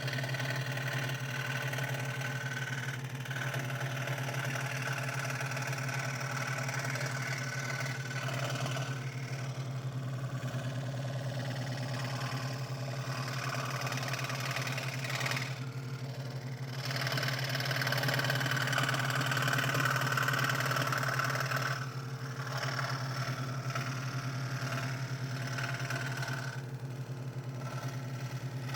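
Scroll saw running steadily, its blade stroking fast as it cuts thin 3 mm craft plywood, the cutting noise swelling and easing as the cut moves along.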